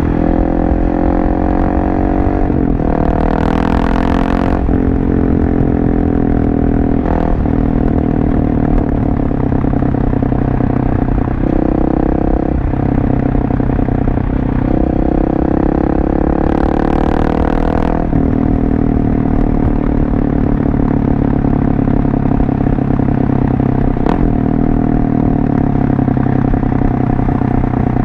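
Husqvarna 701 Supermoto's single-cylinder engine running through a LeoVince exhaust while riding. Its pitch climbs and drops with the throttle and jumps in steps as it shifts gears several times. Two brief hissing bursts come through, one a few seconds in and one past halfway.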